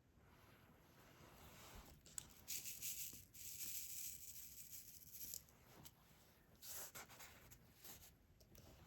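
Faint rustling and scraping of diamond painting work: small resin drills and a drill pen moving over the tray and the canvas, with a longer rustle in the middle and a few short ones and light clicks after it.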